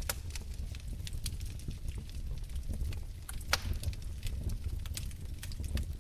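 Wood fire crackling in a fireplace: irregular snaps and pops over a low steady rumble, with one louder pop about three and a half seconds in.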